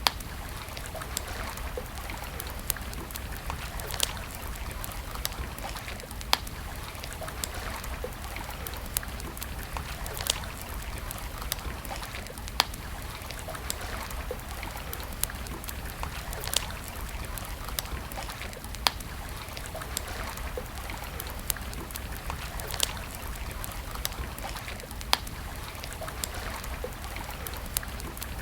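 Wood campfire crackling, with sharp pops every few seconds and many small ticks between them, over the steady rush of running water.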